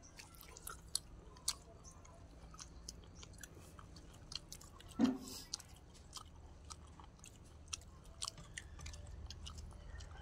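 Close-up chewing and crunching of raw cucumber and fresh greens, with scattered crisp bites and mouth clicks. A short hum of a voice comes about halfway through.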